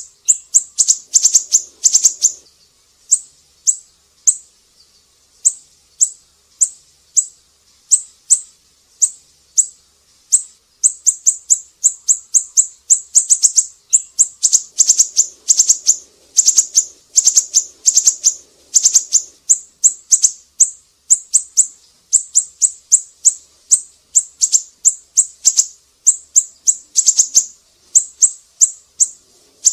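A siri-siri bird singing in quick runs of short, sharp, high chirps, broken by brief pauses.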